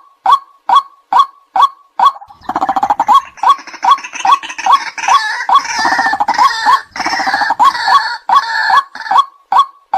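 White-breasted waterhen calling: a loud, evenly repeated note, about two to three a second. From about two and a half seconds in to near the end a dense, harsh chattering joins the repeated notes, then stops, leaving the plain repeated call.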